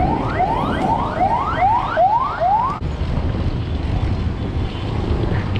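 A rapidly repeating rising whoop, about two and a half a second, that cuts off abruptly about three seconds in. A steady low rumble of wind and road noise follows.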